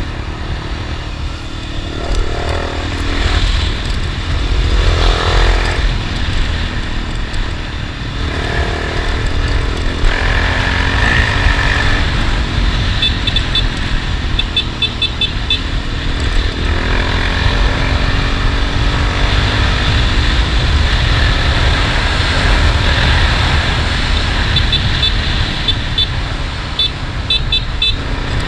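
Honda XRE 300's single-cylinder engine pulling the bike along, its pitch rising and falling several times as the rider accelerates and changes gear, over a steady low rumble.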